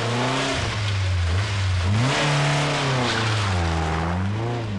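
Ford Escort Mk2 rally car engine revved hard, the revs swinging up and down several times as the car is turned round a tight hairpin and pulled away. The revs climb about two seconds in, fall away, and climb again near the end.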